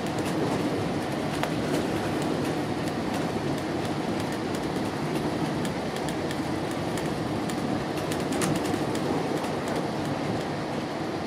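Inside a GO Transit commuter train coach running along the line: a steady rumble of wheels on rail, with scattered sharp clicks through it, most of them about eight to nine seconds in.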